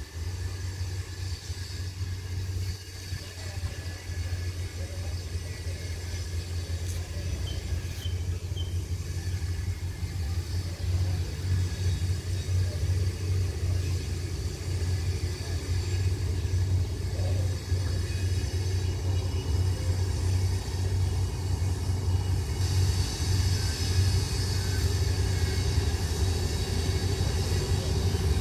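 An approaching diesel locomotive and its train: a low, steady rumble that grows louder as it nears, with a higher hiss joining near the end.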